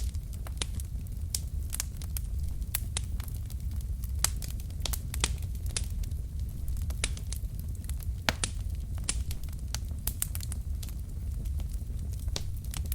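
Wood fire burning in a fireplace, with irregular sharp crackles and pops from the logs over a steady low rumble of the flames.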